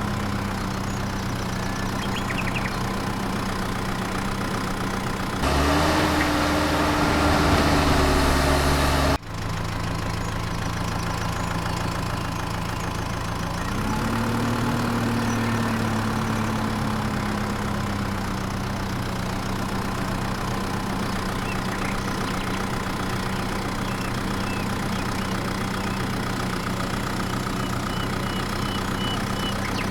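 Small motor running steadily with a low hum. About five seconds in it turns louder and higher, then cuts off abruptly about nine seconds in. It rises in pitch again briefly around fourteen seconds and settles back.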